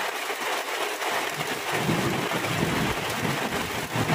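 Steady rain falling, an even hiss, joined about a second in by a low, uneven rumble of thunder.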